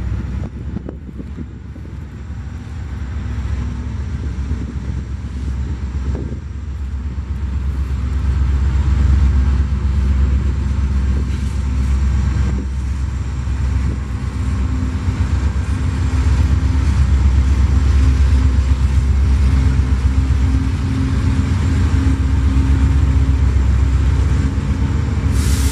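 Union Pacific diesel-electric locomotives hauling a coal train past at close range: a deep, steady engine drone that grows louder over the first eight seconds and then holds, with the rumble of the train rolling over the rails.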